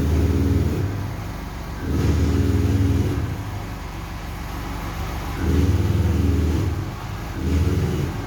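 Diesel engine running unevenly, swelling louder four times for about a second each. Its valve setting is badly damaged and the cylinder head broken.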